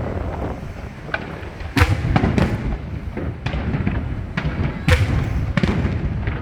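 Aerial fireworks bursting: a series of booms and cracks, the loudest about two seconds in and again about five seconds in, each with a rolling echo.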